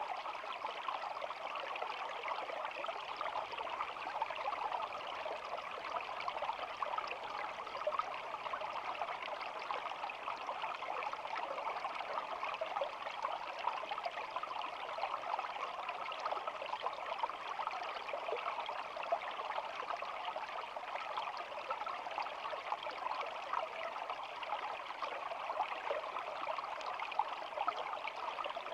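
A small stream flowing and babbling steadily, a constant rush of running water with fine bubbling.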